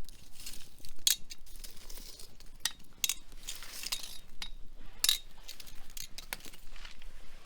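Burning firewood crackling: irregular sharp pops and snaps over a soft hiss, the loudest about five seconds in.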